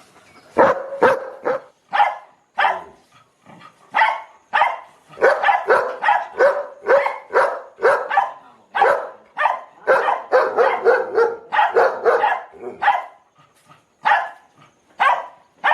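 A dog barking repeatedly in quick short barks, a few a second, with a short pause near the end before the barking resumes.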